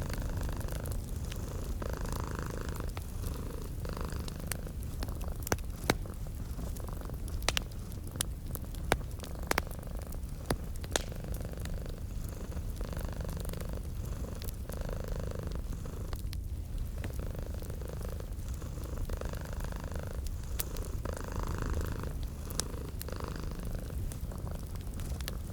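Domestic cat purring steadily, the purr swelling and easing in a slow breathing rhythm about every one to two seconds. A wood fire crackles underneath with scattered sharp pops, most of them about a third of the way in.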